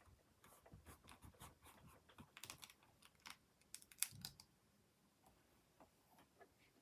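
Faint quick taps and clicks of a clear craft stamp being inked with a black ink pad and pressed onto card, the sharpest click about four seconds in.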